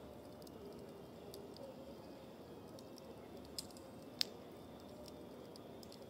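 Wood fire of shrub cuttings burning in a fire bowl, crackling faintly with scattered sharp pops; the loudest pop comes a little past four seconds in.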